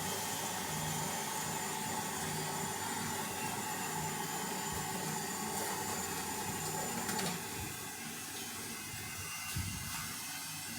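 Lathe running while turning a roller shaft for a noodle-cutting machine: a steady hiss with faint whining tones, thinning a little about two-thirds of the way through.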